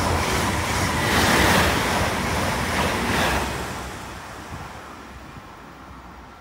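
A train passing at speed: a loud rushing noise that swells a few times and then fades away over the last couple of seconds as the train draws off.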